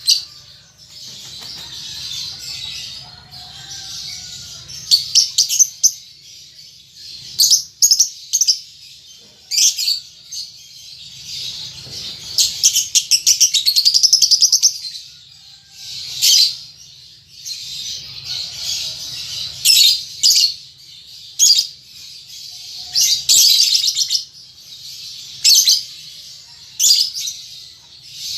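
Young lovebird chattering in repeated high-pitched chirps and short rapid runs of calls, the early typing-like ticking and rattling of a juvenile learning its song. A longer, fast run of calls comes in the middle.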